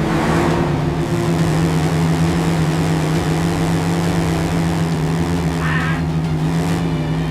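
Monster truck engine running at a steady pitch under race speed, with a hiss of noise over it.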